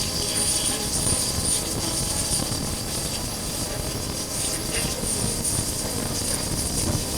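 Wind buffeting a chest-mounted action camera on a moving motorcycle, with the Honda CB400X's parallel-twin engine running underneath, steady throughout.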